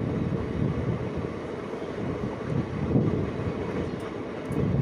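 Passenger train running at speed, heard from an open coach door: a steady rumble of wheels on the rails with wind buffeting the microphone, and a few faint clicks near the end.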